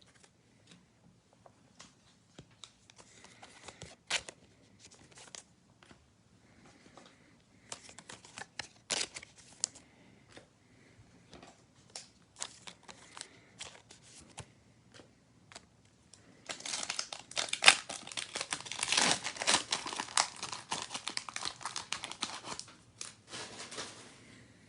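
Trading-card pack wrapper and cards being handled, with scattered light clicks and rustles. About two-thirds of the way through comes a dense stretch of wrapper crinkling and tearing as the pack is opened.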